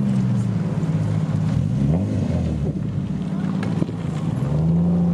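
Car engines running at low speed. One rises in pitch about two seconds in as it revs, and another swells near the end.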